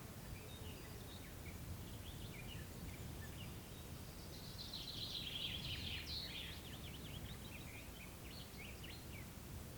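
Small songbirds calling and singing with short high chirps throughout, and one bird's quick run of rapid notes, the loudest part, in the middle. A steady low rumble of background noise runs underneath.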